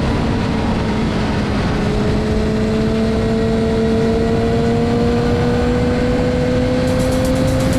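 Motorcycle engine running under way with its pitch slowly climbing as the bike gains speed, over heavy wind rush.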